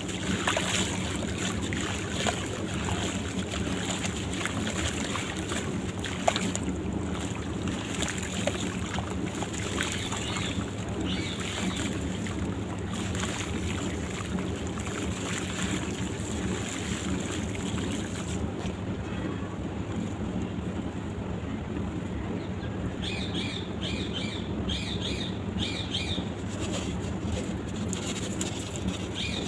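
Dry sand-cement crumbling in water: a dense, steady crackling hiss with scattered small crunches, over a steady low hum.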